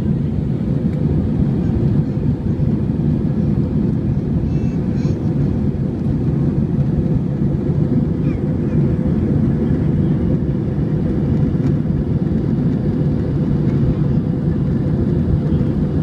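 Steady low rumble of an airliner's jet engines and airflow, heard inside the passenger cabin after takeoff.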